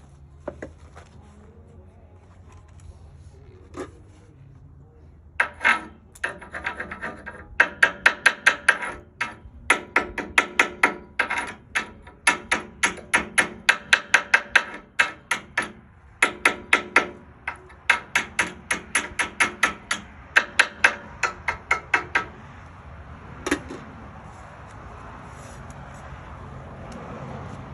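A hammer striking steel in fast runs of blows, about three to four a second, with a bright ringing edge. The runs start about five seconds in and stop a little after twenty seconds, with one more single knock shortly after.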